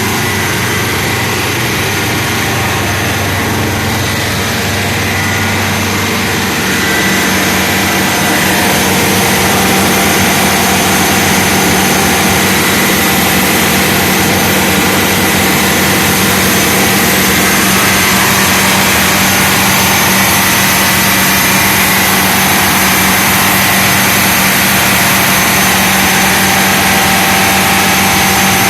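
Detroit Diesel 8V92-TA two-stroke V8 marine diesel engine running loud and steady. About seven seconds in it gets somewhat louder, then holds even.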